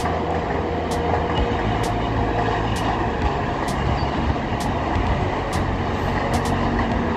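Long container freight train rolling past: a steady rumble of the locomotive and the wagons on the track, with light clicks about once a second.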